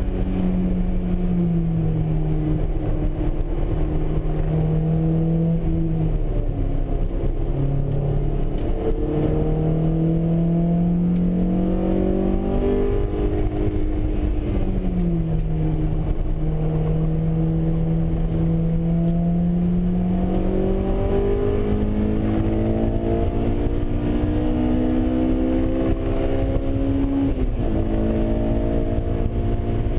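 Honda S2000's high-revving 2.0-litre four-cylinder engine heard from inside the cabin at speed on a race track, its pitch climbing under hard acceleration and falling back repeatedly as the driver lifts and brakes for corners, with a sudden drop near the end at a gear change.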